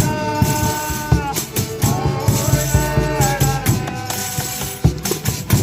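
Folia de Reis folk music: rattling shakers and tambourine jingles over low drum beats, with long held pitched notes that glide down at their ends.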